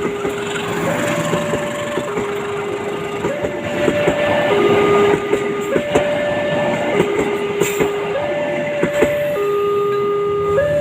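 Railway level-crossing warning alarm sounding a steady two-tone signal, alternating a higher and a lower note, each held about a second. Under it runs the noise of passing traffic, with scattered sharp clicks, growing louder about four seconds in.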